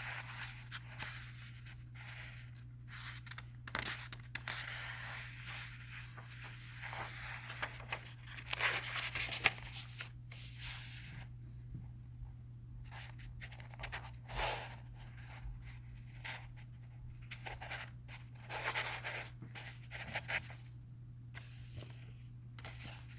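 Irregular rustling and scraping of paper, as book pages are handled, over a steady low hum.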